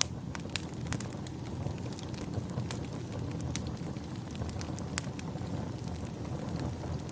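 Wood fire crackling, with sharp pops about once a second over a steady low rumble.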